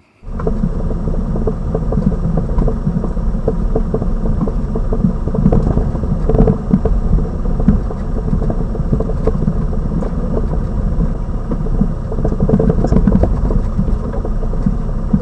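Lada Vesta Cross front suspension recorded under the bonnet while driving over bumps: a steady rumble of road and tyre noise with frequent short knocks and rattles around the front shock absorber strut and its top mount. This is the suspension knock being chased under warranty, heard with the original SAAZ strut still fitted.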